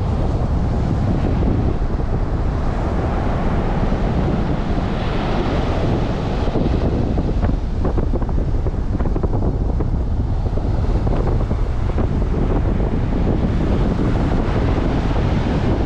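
Strong wind buffeting the microphone, a loud rumbling rush, with surf washing on the beach underneath.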